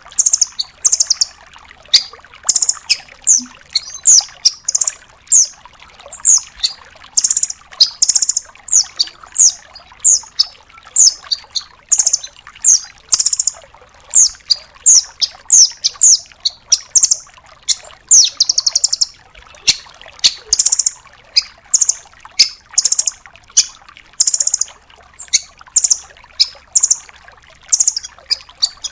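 Velvet-fronted nuthatch calling: loud, high, sharp chips and short rapid trills, repeated about twice a second.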